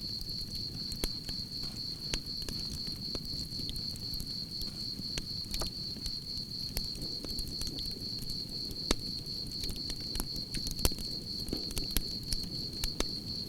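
Campfire crackling with scattered sharp pops, a couple of them louder in the second half, over a low steady rush of the flames. Crickets chirp in a continuous high-pitched trill throughout.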